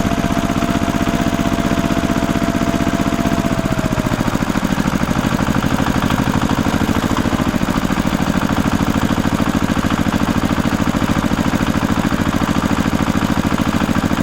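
Small engine of a miniature DIY tractor running steadily with a rapid, even pulsing. A thin whine above it dips and fades out about four seconds in.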